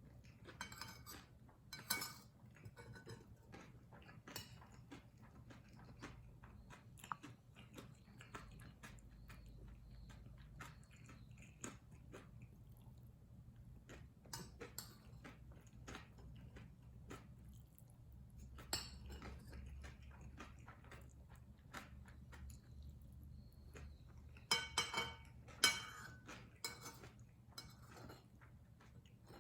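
Cutlery clinking and scraping against a dish while kimchi fried rice is eaten, with quiet chewing between the clicks. The clinks come in scattered clusters, loudest about two seconds in and again a few seconds before the end.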